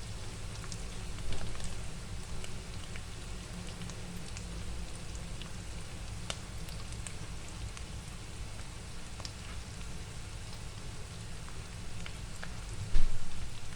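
Spice paste frying in a pan: a steady sizzle with scattered small pops. There is a brief swell about a second in and one sharp knock near the end.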